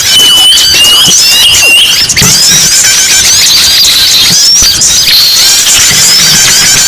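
Loud, dense chorus of many small songbirds chirping and twittering over one another: a noisy small-bird lure call. In the first two seconds a steady high whistled note sounds through the chirps.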